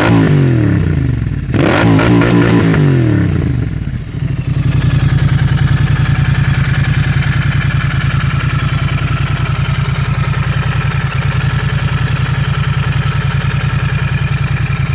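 Royal Enfield Interceptor 650 parallel-twin engine breathing through a TEC Stinger 2-into-1 exhaust. The throttle is blipped twice near the start and the revs fall away each time, then the engine settles into a steady idle for the rest of the time.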